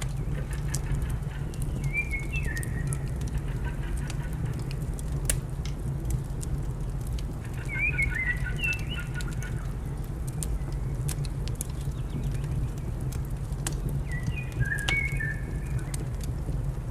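Fireplace fire crackling with sharp pops over a steady low rumble, while a songbird sings short warbling phrases three times: about two seconds in, around eight seconds in, and near the end.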